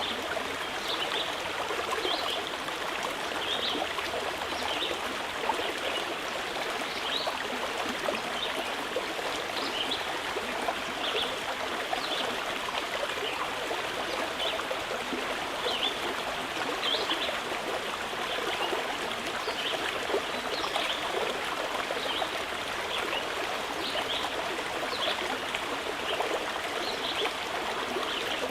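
Mountain river flowing steadily, a continuous rushing of water, with short high bird chirps repeating every second or two over it.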